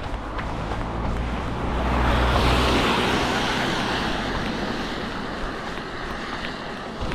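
A car passing on a wet road: the engine and tyre hiss swell to a peak about two to three seconds in, then fade away.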